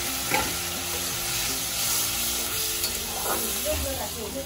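Spice paste of poppy-seed and mustard paste sizzling in hot oil in an iron kadai, with a metal spatula stirring and scraping the pan now and then as water goes in.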